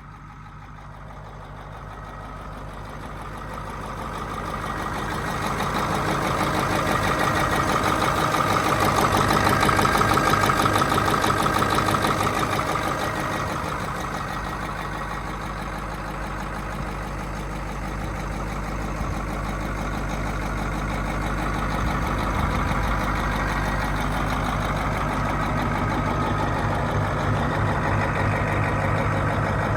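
Caterpillar 3208 V8 diesel engine of a Chevrolet Kodiak truck running at idle. It grows louder over the first several seconds and is loudest about a third of the way in, then eases back and runs steadily.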